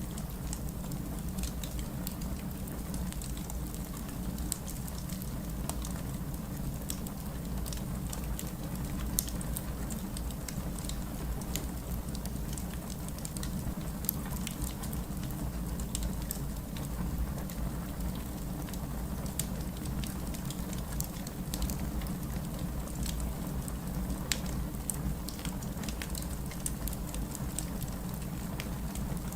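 Heavy rain together with a crackling wood fire in a fireplace: a steady low rush with many scattered, irregular sharp pops and crackles.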